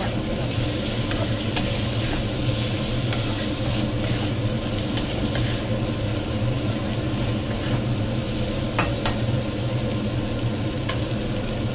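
Diced potatoes frying in oil in a metal kadai, sizzling steadily, while a metal spoon stirs them and scrapes against the pan. A few sharp clinks of the spoon on the kadai, two in quick succession a little before nine seconds in.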